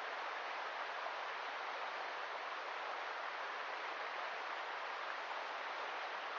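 River water rushing steadily, an even hiss without breaks.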